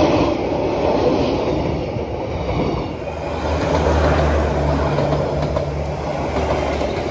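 Passenger train carriages rolling past close by: a steady rumble of steel wheels on the rails. A low steady hum joins it about three seconds in.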